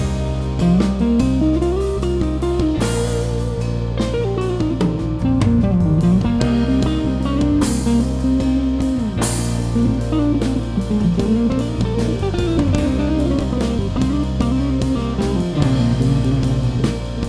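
Live instrumental band music: a guitar plays a winding melodic lead over bass and drum kit, with cymbal crashes about three seconds in and again near the middle.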